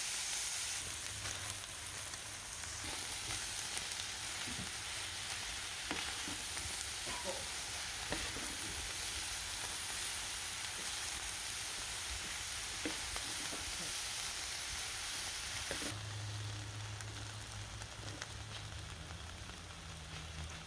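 Food frying in a pan: a steady sizzling hiss with a few light knocks.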